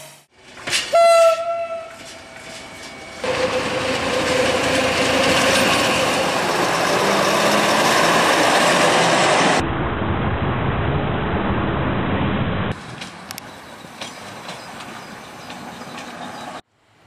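A montage of rail and road vehicle sounds. A short train horn blast sounds about a second in, followed by loud running noise of passing vehicles that changes abruptly at several cuts, and a quieter stretch with faint clicking near the end.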